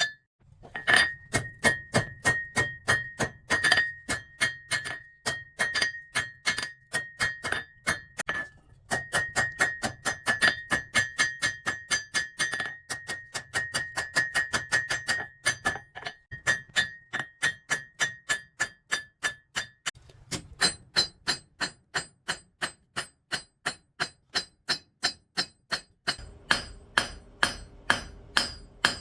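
Blacksmith's hammer striking steel on an anvil in fast, steady runs of about three blows a second, each blow ringing, with short pauses between runs. The ring changes to a higher pitch about two-thirds of the way in, and a faint steady hum comes in near the end.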